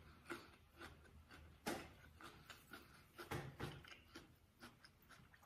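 Quiet chewing of food, with soft wet mouth clicks and a few louder smacks.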